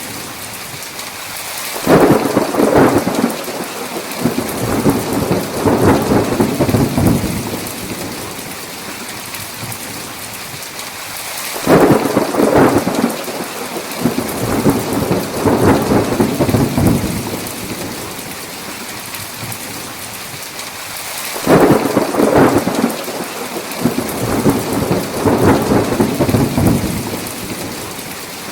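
Steady heavy rain with thunder: three claps, each starting suddenly and rolling on for several seconds, spaced about ten seconds apart.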